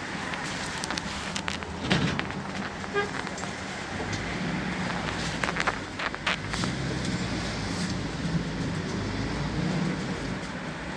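Interior noise of a PAZ 32054 bus on the move: its V8 petrol engine running, with road noise and short rattles and clicks from the body. The engine note changes about two seconds in.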